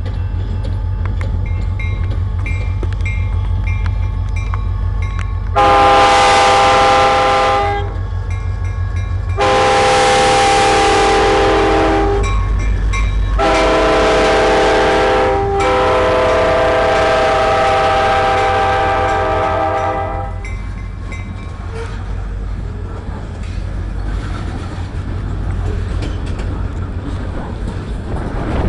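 Diesel locomotive sounding its multi-chime air horn in four blasts, the last held longest, over the steady low rumble of its engine as it passes.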